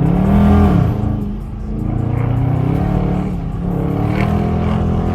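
Dodge Scat Pack's 6.4-litre HEMI V8 under way: the revs climb and drop back within the first second, then it runs on at fairly steady revs.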